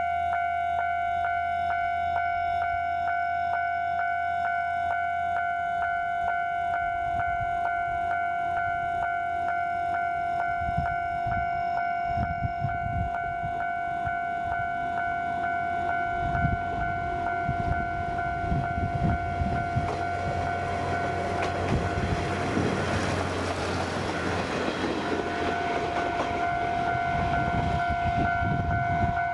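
A level-crossing warning bell rings steadily at an even rate over the low running of the KiHa 532 diesel railcar. The train then passes: its wheels thump over the rail joints, and its noise swells to drown out the bell a little past two-thirds of the way through before fading as the bell carries on.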